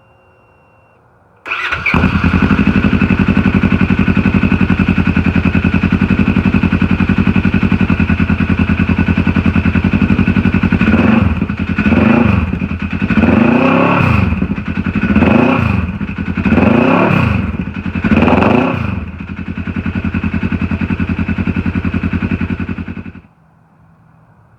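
Polaris RZR XP 900 twin-cylinder engine through its stock exhaust, which has a cracked header that makes it louder than normal: it starts about a second and a half in, idles, is blipped five times in quick succession, settles back to idle and is shut off near the end.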